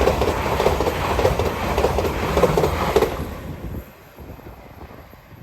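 LNER express passenger train passing at speed over the rails, with a regular wheel clatter of about two to three beats a second. About three seconds in, the last coach goes by and the sound dies away quickly.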